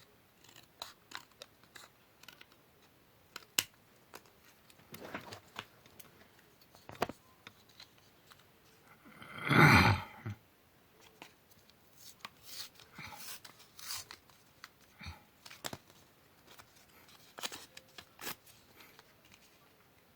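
Scissors snipping paper in short, irregular cuts. A louder noise lasting about a second comes roughly halfway through.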